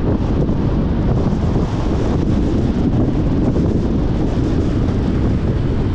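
Car on the move: a steady low rumble of road and wind noise, even throughout with no changes.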